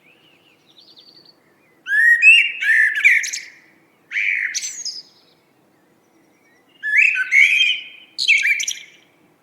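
A songbird singing in separate phrases with short pauses between them: a faint opening phrase, then four louder ones, each a warbled run with a high twittering end.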